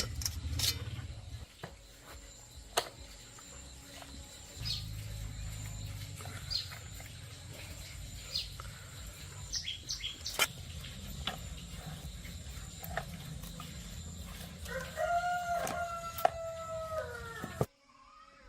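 A rooster crowing once, a single long crow of nearly three seconds near the end that falls in pitch as it finishes and is cut off abruptly. Scattered light clicks and taps and a low hum run underneath.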